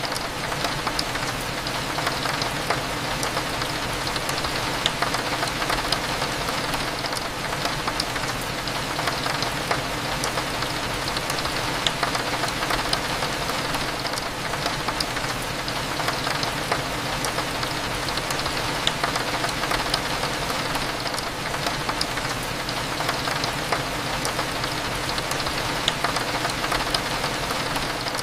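Steady rain pattering on a window, with many small drop ticks, over a low steady hum of cafe background.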